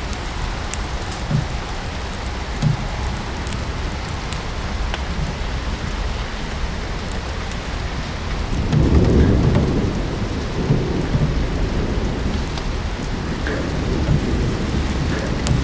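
Steady rain with a low rumble of thunder that swells about halfway through and slowly fades, and a fireplace crackling with sparse small pops.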